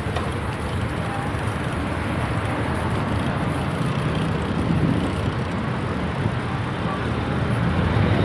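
Steady rushing noise of a bicycle ride along a road: wind on the microphone mixed with road traffic.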